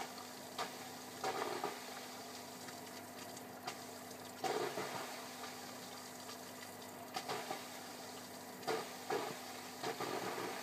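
Fluval 405 canister filter running with a steady hum and irregular bursts of watery noise every second or two. This is an abnormal noise that began after the filter was reset with a new water-polishing pad, and it persists even though the air has been purged and the impeller lubricated.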